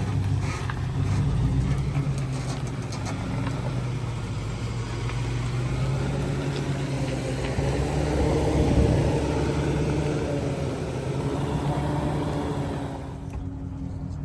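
Motor vehicle engine running steadily, its pitch rising for a few seconds about halfway through, then easing off and quieting near the end.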